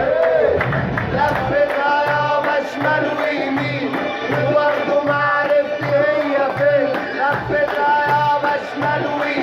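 Music: a male voice singing a long, ornamented melody over a steady low drum beat, about two beats a second.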